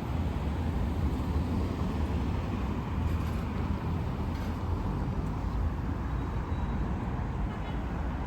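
Steady city traffic noise, a continuous low rumble of passing road vehicles.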